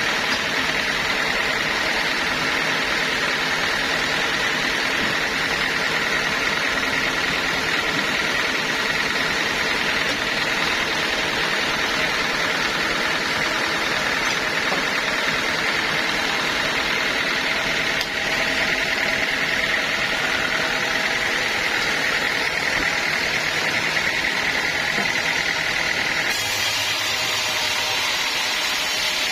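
Band sawmill running steadily while sawing a teak log: engine hum under the steady whine of the blade. The sound changes abruptly near the end.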